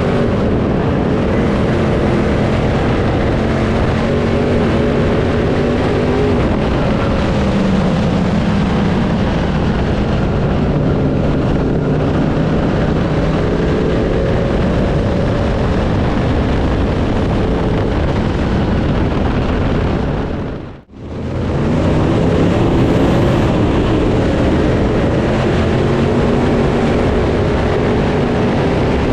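Dirt late model race cars' V8 engines running hard around the track, with the pitch rising and falling as they accelerate and lift. About two-thirds of the way through, the sound briefly fades almost to nothing and comes straight back.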